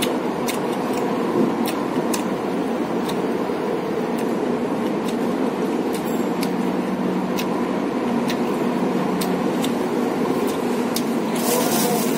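A man chewing food close to the microphone, making short irregular clicks, over a steady, unchanging background noise.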